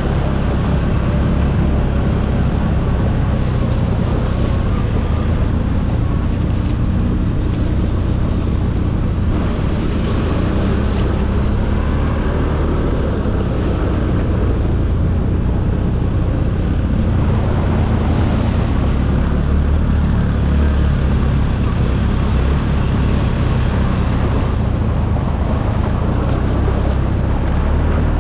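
ATV engine running steadily, a low even drone with a rush of noise over it.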